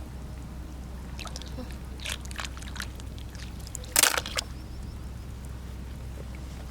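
Wet sand squelching and shells crunching as clams are dug out and picked up by hand. A few short scrapes are followed by one louder, sharper clatter about four seconds in, over a steady low rumble.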